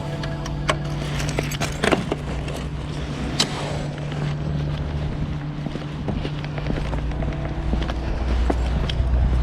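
Honda CB500X's parallel-twin engine running at low speed, a steady hum with scattered sharp clicks, growing a little louder near the end.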